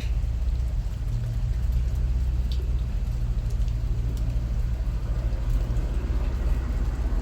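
Rain falling, with scattered faint drop ticks over a steady low rumble that is the loudest part of the sound.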